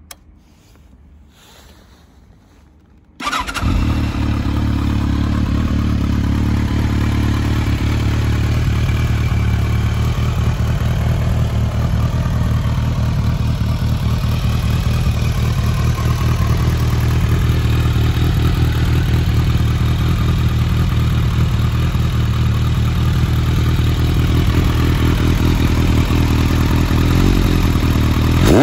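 Kawasaki ZRX1200R's inline-four engine, breathing through pod air filters and a Pipewerx custom silencer, started about three seconds in after a few faint clicks at the key. It catches at once and settles into a loud, steady idle.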